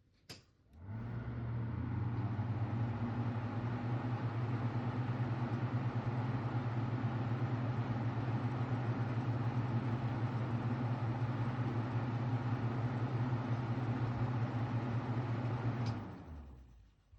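A switch clicks, then a 15 cm household exhaust fan spins up and runs steadily with a strong motor hum under the rush of air. About a second before the end it is switched off and winds down to quiet, with another small click.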